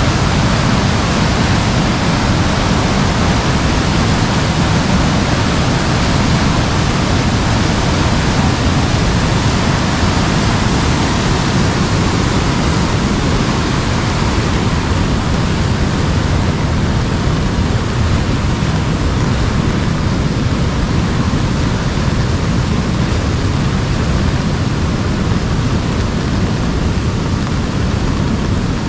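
Heavy rain falling on an umbrella: a loud, steady, dense hiss with no breaks.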